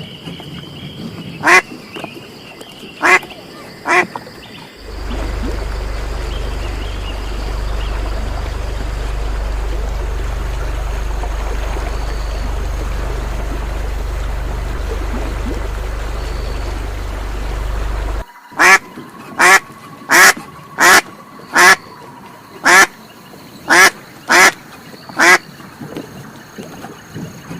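Duck quacking: three quacks, then a long steady low rumble, then a run of about a dozen loud quacks, roughly one a second.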